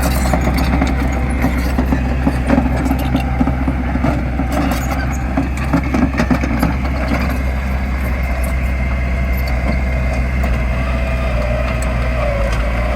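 Heavy diesel construction machinery running steadily under work, with scattered clanks and knocks.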